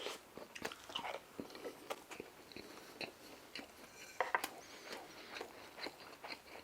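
A person chewing a mouthful of food close to the microphone, with irregular wet clicks and smacks of the mouth, several a second.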